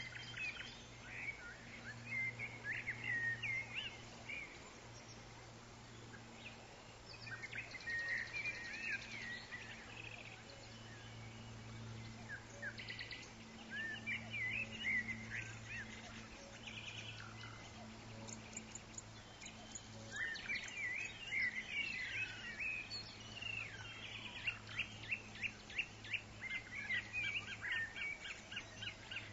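Several birds calling and chirping in a forest, with short whistled notes and quick trills coming in bursts, over a steady low hum and light background hiss.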